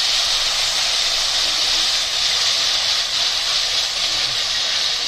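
Ground onion-and-tomato paste sizzling steadily in hot oil in a kadhai.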